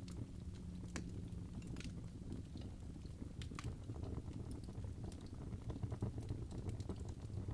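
Wood fire burning in a fireplace: irregular crackles and pops, a few sharp ones, over a low steady rumble of flame.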